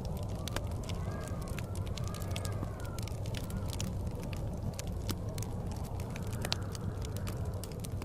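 Wood fire crackling with frequent sharp pops over a steady low rumble of blizzard wind, which whistles faintly in rising and falling tones during the first few seconds.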